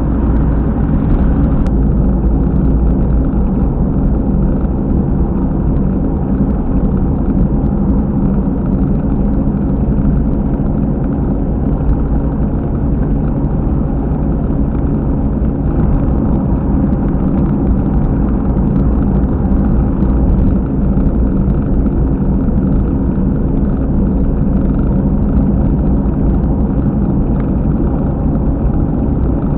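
Car at expressway speed, heard inside the cabin, with a loud, steady low rumble from a rear wheel; the uploader writes it as "bokoboko". It is the sign of a failed rear wheel hub bearing, as it turned out to be.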